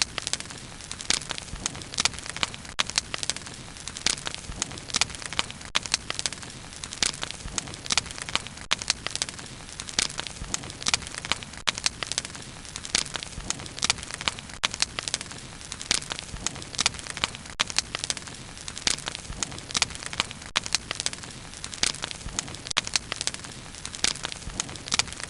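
Bonfire burning with frequent sharp, irregular crackles and pops of burning wood over a steady low hiss of flame.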